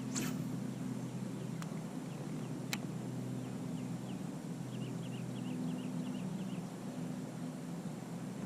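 A steady low motor hum on the water, with a few sharp clicks in the first few seconds. About five seconds in, a bird gives a quick run of short high chirps.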